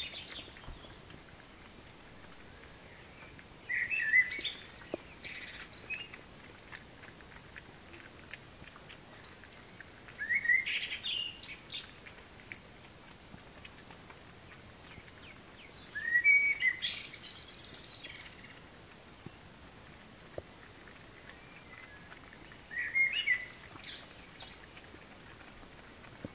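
A songbird singing four short phrases of quick rising and falling notes, each about two seconds long and about six seconds apart.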